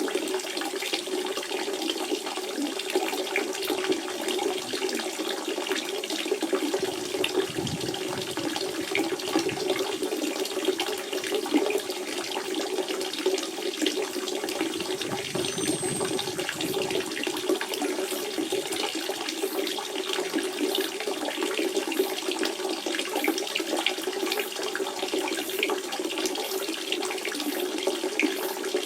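Natural spring water running in a steady flow, with a continuous splashing and gurgling rush.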